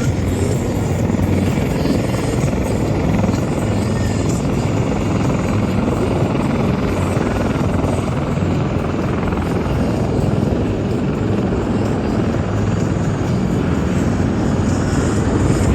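Helicopter flying, a loud, steady rotor and engine noise with a low hum underneath.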